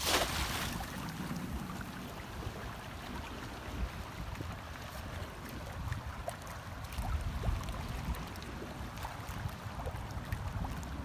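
Wind rumbling on the microphone over a steady wash of sea water, with a short loud hiss right at the start.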